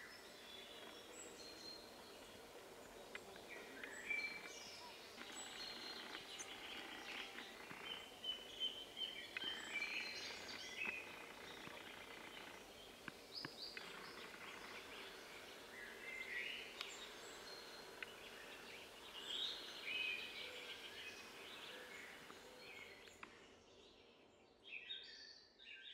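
Faint outdoor ambience with many birds chirping and calling in short bursts and trills over a steady background hiss, fading out near the end.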